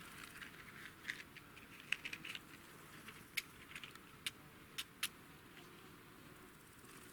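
A handful of short, sharp clicks and light knocks, spaced irregularly over about four seconds, as small objects are handled.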